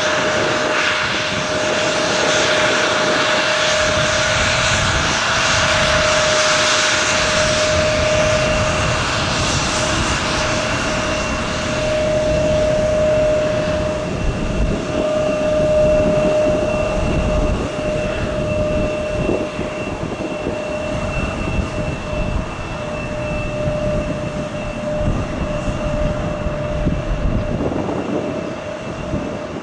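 Aircraft engines running with a steady whine over a rushing hiss. Strong wind buffets the microphone with an uneven low rumble.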